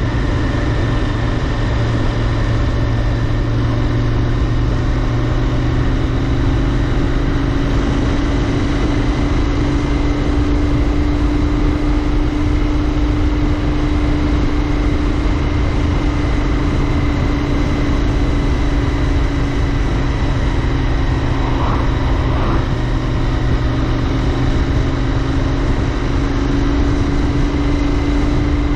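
Royal Enfield Interceptor 650's 648 cc parallel-twin engine and exhaust running steadily while riding at cruising speed. The engine note rises a little in the first few seconds, then holds nearly even.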